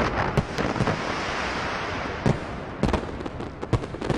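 Fireworks display bursting: irregular sharp bangs, several in quick succession near the end, over a continuous noisy hiss.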